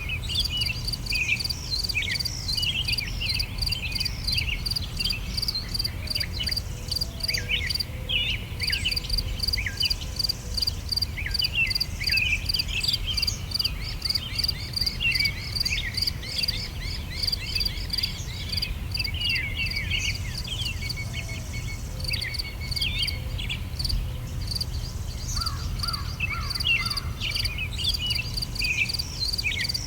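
Summer outdoor ambience: many songbirds chirping and twittering, with a fast, even, high-pitched insect chirring like a cricket that stops twice for a few seconds, over a low steady rumble.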